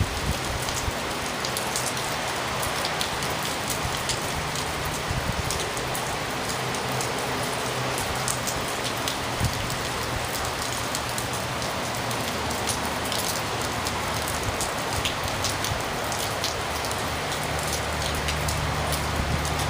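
Heavy rain falling steadily, with the patter of close drops, over the constant low roar of freeway traffic.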